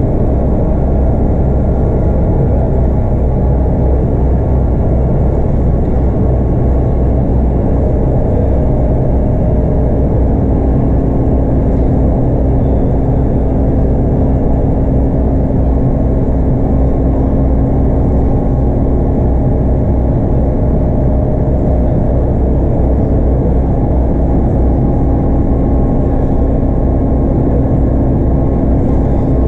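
Scania K230UB bus with a 5-cylinder 8.9-litre DC9 diesel and ZF Ecomat automatic, heard from inside the cabin, running at a steady speed. Engine drone and road rumble hold a constant pitch and level, with no gear change.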